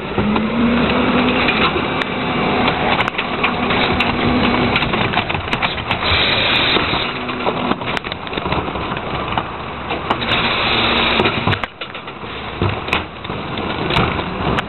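Heil 5000 rear-loader garbage truck running its packer: the engine revs to drive the hydraulics in stretches while trash crunches and cracks in the hopper. The sound eases off about three-quarters of the way through.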